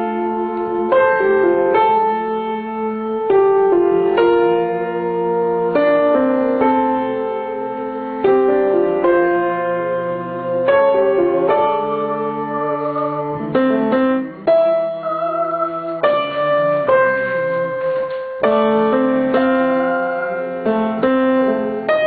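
Piano playing through a song's vocal line in chords, a new note or chord struck about every second.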